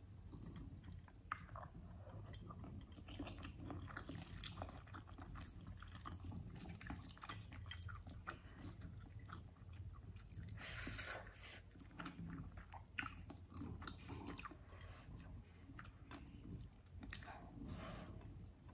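Close-miked chewing and wet mouth sounds of someone eating chicken wings, rice and sambal with their fingers, with many small clicks and smacks throughout and one brief louder rustle a little past the middle.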